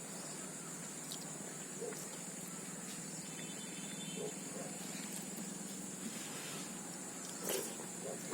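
Soft eating sounds of pakhala (rice in water) eaten by hand: a few faint mouth clicks and smacks, over a steady high-pitched hiss.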